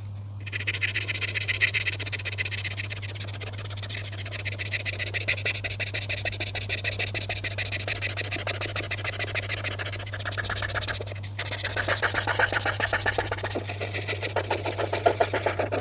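Rapid back-and-forth coloring strokes scratching across paper, pausing briefly about eleven seconds in, over a steady low hum.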